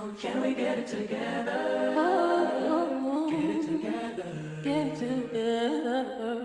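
Vocal music: a voice singing a wavering, melodic line over a steady low held tone.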